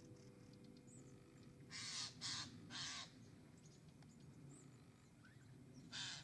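Harsh, cawing bird calls: three in quick succession about two seconds in, and one more near the end. Between them is faint outdoor ambience with a few small, high bird chirps.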